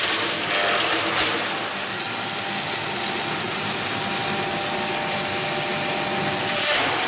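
Industrial wood-processing machine running with a steady rushing noise and a faint hum, swelling briefly about a second in and again near the end.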